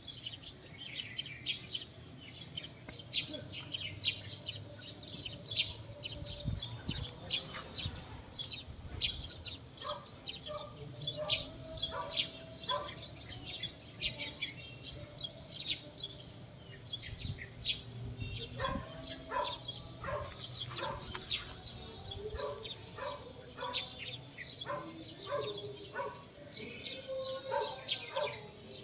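Many small birds chirping together in a dense chorus of short, high, overlapping chirps. Lower notes mix in more often during the second half.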